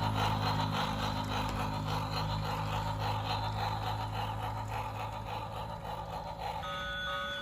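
Model electric train running on its track: a steady low motor hum with fast, fine clicking of the wheels on the rails. Near the end a steady chord of several high tones starts.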